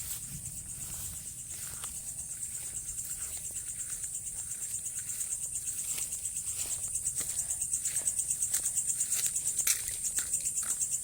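Insect, cricket-like, trilling at a high pitch, pulsing about three times a second and growing louder.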